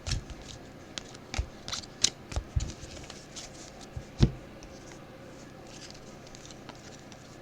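Football trading cards being handled and flicked through one by one: a scatter of light clicks and snaps over the first four seconds or so, the sharpest about four seconds in, then quiet handling.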